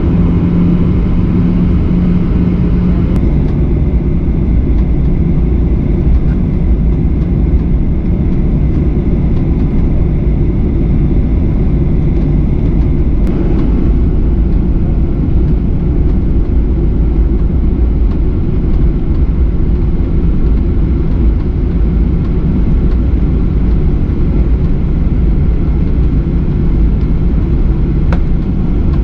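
Steady cabin noise inside a Boeing 737 airliner: a loud, even rumble of engines and airflow, with a steady hum that drops slightly in pitch about three seconds in.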